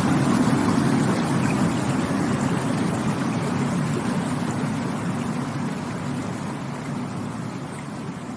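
Rushing water: a steady rush with a low rumble, growing gradually fainter.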